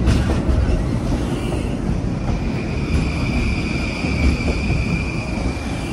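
Long Island Rail Road M9 electric train rolling slowly into the station with a low rumble; from about two seconds in, a steady high squeal sets in as it brakes toward a stop.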